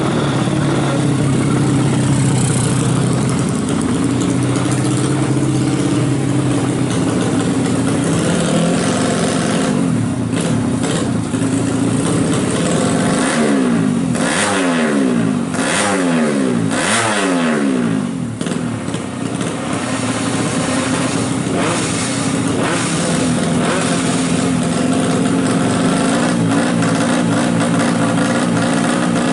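A 150cc drag-bike motorcycle engine running at a steady, fast idle while being tuned. Around the middle it is revved in about four quick throttle blips, each rising in pitch and dropping back, then it settles to a steady idle again.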